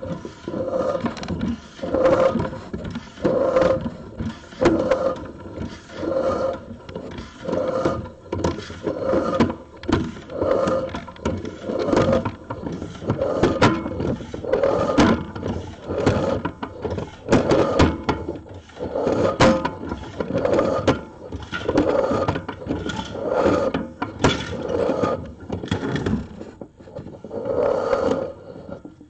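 Pipeline inspection camera and its push cable being fed through sheet-metal HVAC ductwork, scraping and rumbling hollowly inside the duct in repeated pushes, roughly one every second or so, with occasional sharp clicks.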